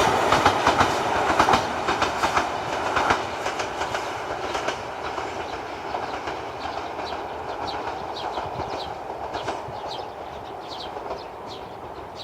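Ichibata Electric Railway 2100 series electric train running past and fading away, its wheels clicking over rail joints. The clicks are loud at first and die down over the first few seconds. Short high bird chirps come through as the train recedes.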